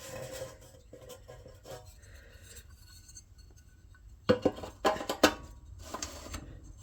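Metal tools and engine parts clinking and rattling as they are handled, with a few sharp clinks about four to five seconds in.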